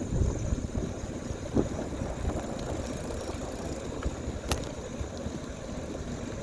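Bicycle rolling along a woodland path: a steady rumble of tyres and rattling from the bike, with a single sharp click about four and a half seconds in. A faint, steady high chirring of crickets runs underneath.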